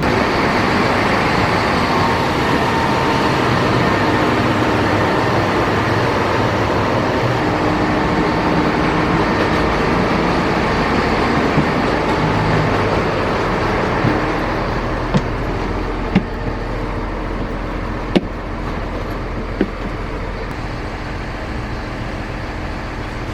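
Engine and road noise heard inside an airport limousine bus as it drives, loud and steady. It drops to a quieter, steady hum about two-thirds of the way through, with a few sharp clicks near the end.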